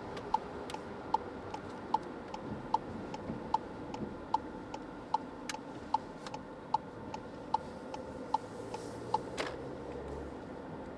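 Car turn-signal indicator ticking in the cabin: an even tick-tock, a louder tick about every 0.8 s with a softer one between, which stops a little after nine seconds in, followed by a brief soft swish. Steady road and rain noise runs underneath.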